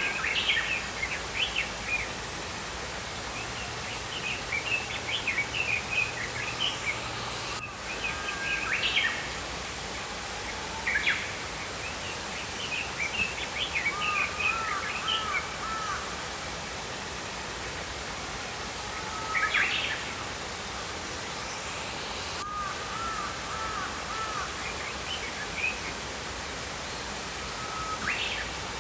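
Small songbirds chirping and twittering in short bursts every few seconds over the steady rush of a flowing stream.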